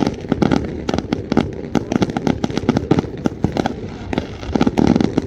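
Fireworks going off in a dense, continuous barrage of overlapping bangs, several a second.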